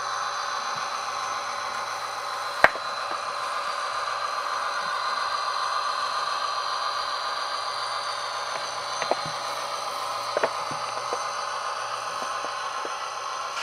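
Tsunami sound decoder in an Atlas GP40-2 model locomotive playing its diesel engine running sound through a small speaker: a steady hum with faint high tones over it. Sharp clicks cut in, a loud one about two and a half seconds in and a few smaller ones around nine to ten seconds.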